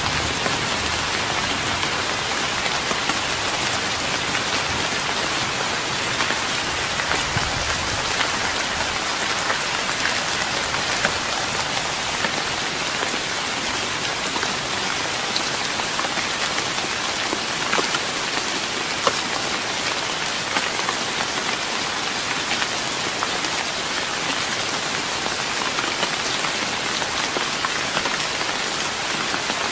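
Steady rain falling on a wooden deck: a dense, even hiss with individual drops ticking on the boards.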